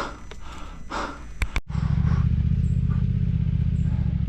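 A few short breaths, then, after an abrupt cut about a second and a half in, a motorcycle engine running steadily with a fast, even low rumble.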